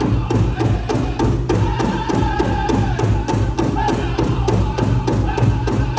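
Powwow drum group: a big drum struck in a steady fast beat, about four or five strokes a second, with singers' high voices wavering over it.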